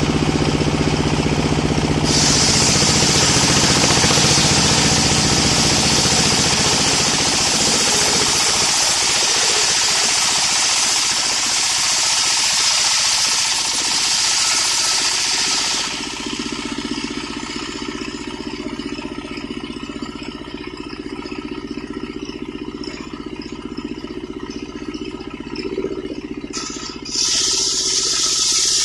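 Sawmill's homemade circular saw cutting through an old coconut-palm log, a loud high hiss over the running engine. About halfway through the cut ends and the blade spins free with the engine quieter. Near the end the blade bites into the wood again.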